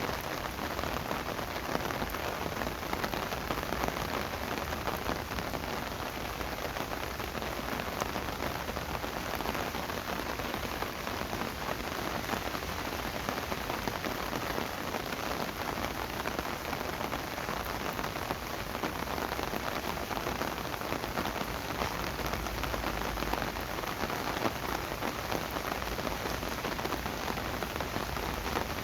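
Steady rain falling, an even hiss of countless drops with fine scattered ticks and a faint low rumble beneath.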